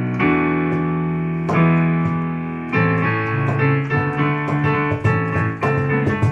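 Keyboard playing music: two long held chords, then rhythmic chord playing from about three seconds in.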